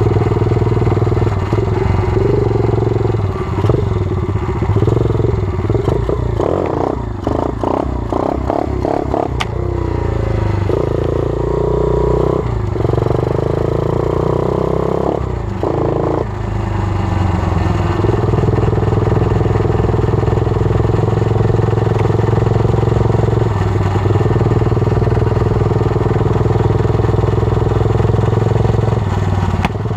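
120cc pit bike engine running as the bike is ridden. The engine note changes repeatedly through the first half, with choppy, uneven stretches around the middle, then holds steady for most of the second half.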